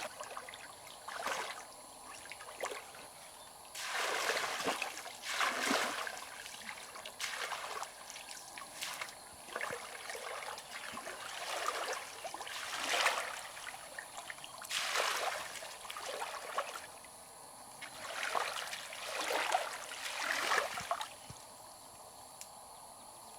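Shallow river water splashing and sloshing in about a dozen irregular bursts over a steady trickle.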